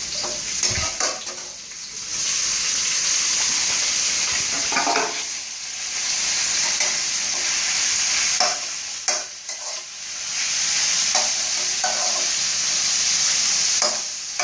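Shrimp, squid and vegetables sizzling in hot oil as they are stir-fried, a spatula scraping and knocking against the pan. The sizzle swells loudest in two long stretches, with short scrapes and knocks in between.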